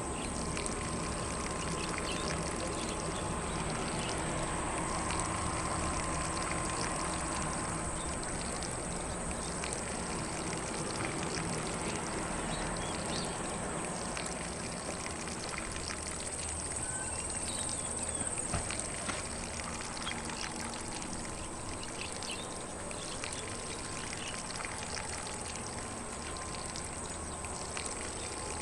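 Lawn sprinkler spraying water across grass: a steady, even hiss and patter of water, with faint birds in the distance.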